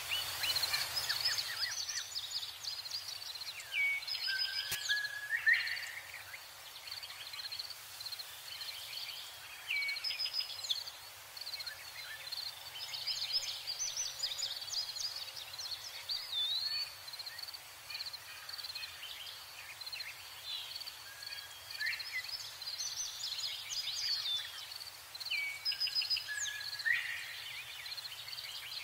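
Birds singing: a steady stream of short chirps, trills and quick whistled glides, over a faint steady background hiss.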